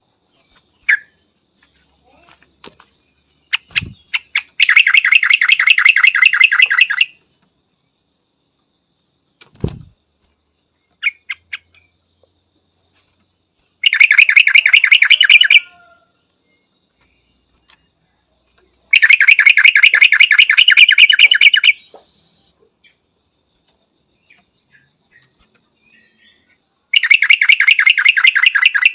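Yellow-vented bulbul calling: four loud bursts of rapid, evenly repeated chattering notes, each lasting two to three seconds, with soft scattered chirps in the pauses between.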